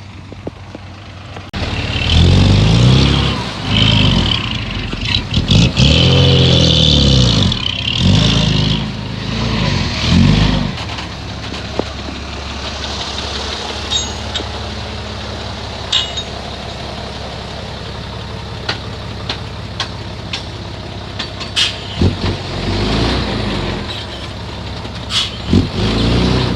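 Heavy diesel earthmoving engine revving up and down repeatedly for several seconds, then running steadily with a few sharp clanks, then revving again near the end.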